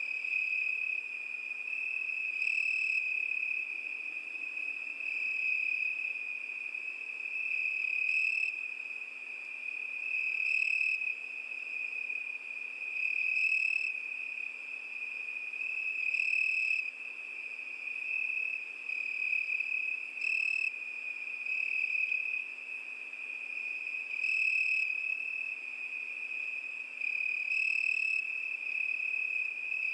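Cricket song: an unbroken high trill at one steady pitch, swelling a little louder every few seconds.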